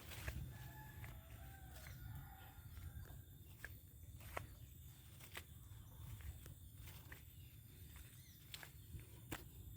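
Quiet outdoor ambience: a faint wavering animal call, like a distant chicken, in the first two seconds, then scattered light clicks through the rest.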